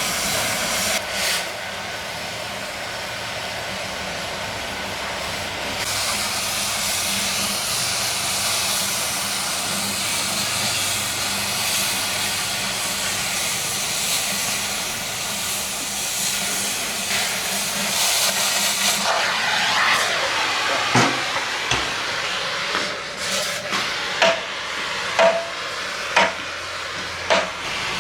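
Gas cutting torch hissing steadily as it burns through steel. Near the end it gives way to a run of sharp knocks about once a second.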